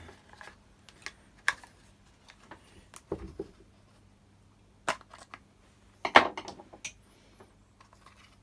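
Scattered clicks and knocks of hand work on a Stihl BR600 backpack blower's plastic housing and fuel primer as it is taken apart, the loudest cluster about six seconds in, over a faint steady hum.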